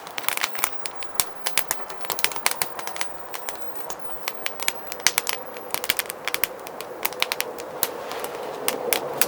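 Firewood burning in a fire pit, crackling with irregular sharp pops and snaps several times a second over a soft hiss of flame. The flame's rush grows slowly louder near the end.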